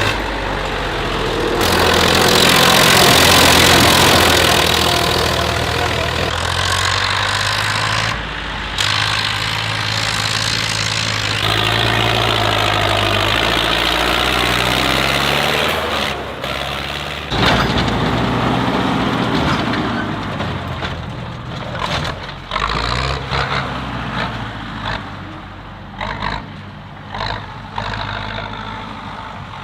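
Tractor engines running in a string of short clips that cut abruptly from one to the next. About halfway through, one engine's pitch falls as it slows.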